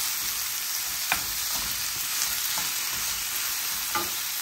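Chopped onions, garlic cloves and dried red chillies sizzling in oil in a stainless steel pan as they are sautéed for a garlic chutney. They are stirred with a spoon, which clicks against the pan a few times.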